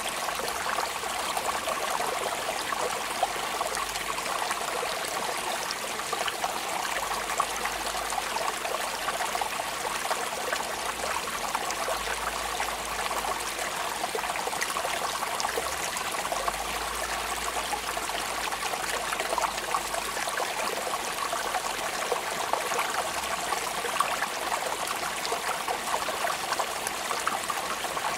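Steady rain falling: an even hiss of water with many small individual drop clicks scattered through it.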